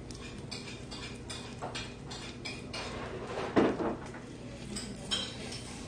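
Chewing a mouthful of leafy ssam wrap, a string of small crisp clicks and crunches, with tableware clinking; one louder clink about three and a half seconds in.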